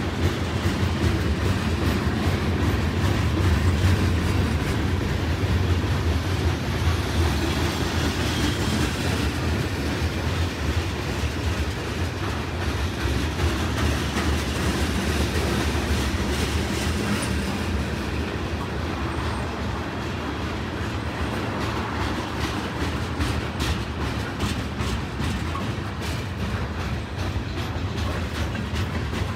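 Freight cars of a long mixed freight train (tank cars, covered hoppers, a centerbeam lumber flatcar) rolling steadily past close by: a continuous rumble of steel wheels on rail with clickety-clack over the rail joints, the clicks coming thicker in the second half.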